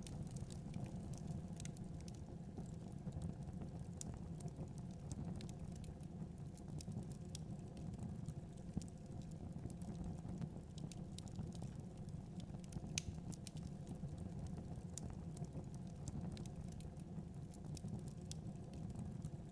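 Wood fire crackling in a fireplace, with scattered sharp pops and ticks over a steady low rumble.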